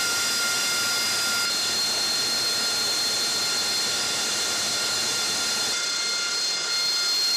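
AV-8B Harrier II jet engine running with a steady high whine over a rushing hiss, a higher whine tone joining about a second and a half in.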